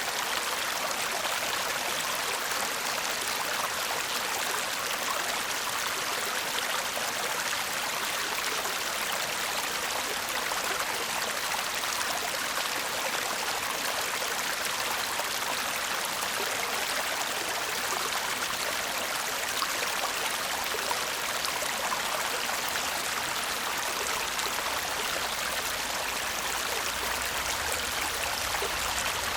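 Shallow stream running over stones: a steady, even babbling and trickling of water.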